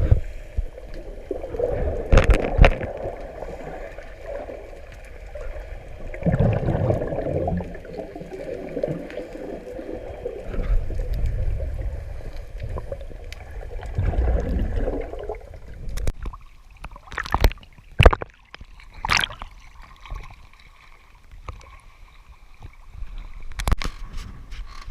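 Water gurgling and sloshing in repeated surges every few seconds, then a few sharp knocks in the quieter second half.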